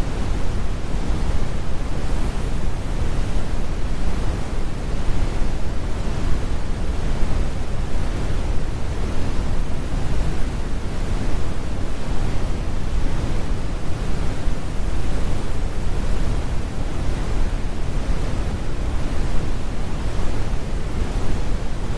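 Synthetic brown noise: a steady, deep rumbling hiss with its weight in the low end and the highs rolled off, without change or events.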